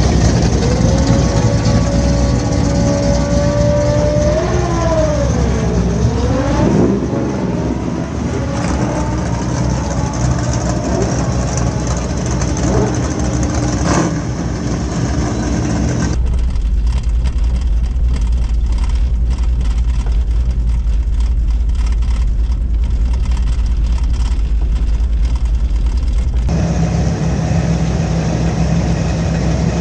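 Race car engine running loud, its pitch dipping and climbing back a few seconds in. About sixteen seconds in the sound cuts abruptly to a deep, steady rumble with little else above it, and it changes again near the end.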